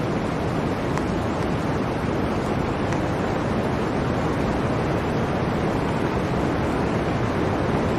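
Blizzard wind blowing steadily as a dense, even noise, with a few faint ticks.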